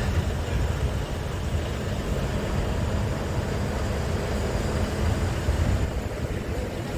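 Scania R410 tractor unit's 13-litre six-cylinder diesel engine running steadily, a continuous low rumble.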